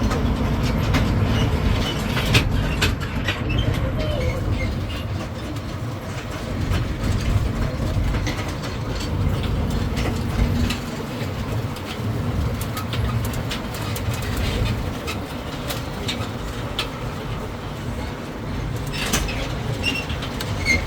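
Tourist road train running along the road, heard from aboard: a steady low rumble of the tractor unit and tyres, with the carriages rattling and clicking throughout.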